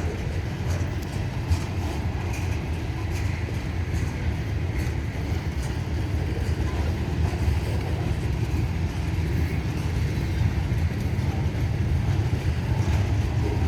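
CSX freight train's cars rolling past slowly, at about 10 mph, with a steady low rumble of wheels on rail and light scattered clicks.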